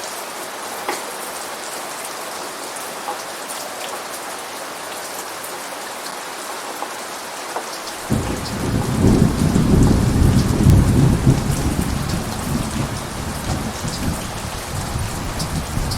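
Steady heavy rain with scattered sharp drop ticks. About halfway through, a low rolling rumble of thunder sets in suddenly, swells for a few seconds and slowly eases under the rain.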